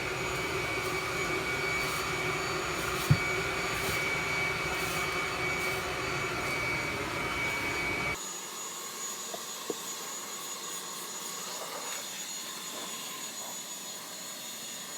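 Leaf blower running steadily with a high whine. About eight seconds in it cuts to a quieter, thinner hiss.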